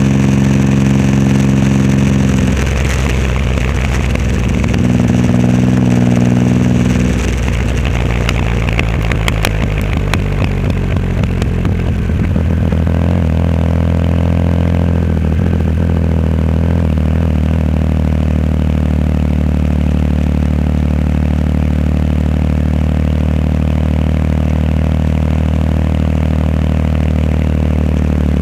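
Triumph Rocket 3 Roadster's three-cylinder engine through a custom exhaust while riding. The engine note changes twice in the first seven seconds, then holds steady at a cruise.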